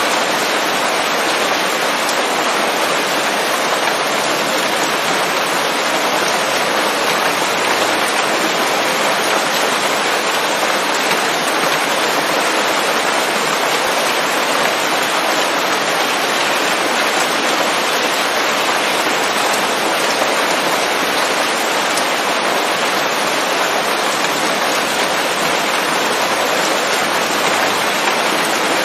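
Steady rain falling on leaves, a dense even hiss of drops at a constant level with no thunder.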